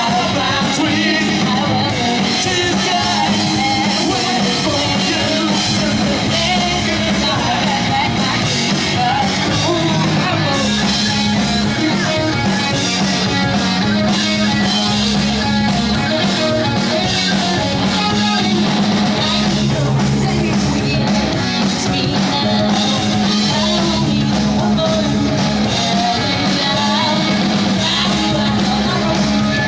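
Pop punk band playing live: loud distorted electric guitars, bass and drums with a singer's voice over them.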